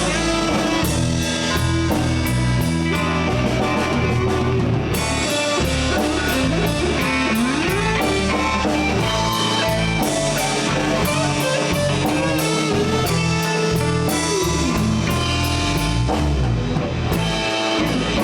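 Live blues band playing an instrumental passage: electric guitar bending notes over bass guitar and a drum kit keeping a steady beat with cymbals.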